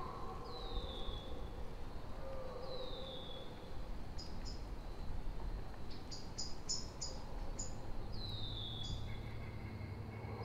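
Forest ambience with bird calls: a short downward-sliding whistle repeated every couple of seconds, clusters of quick high chirps in the middle, and softer warbling lower down. A low steady hum comes in about eight seconds in.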